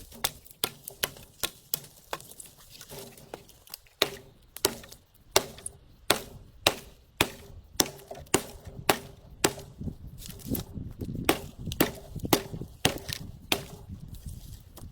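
Wood being chopped with a hand-held blade: a long run of sharp, evenly paced strikes, about two a second.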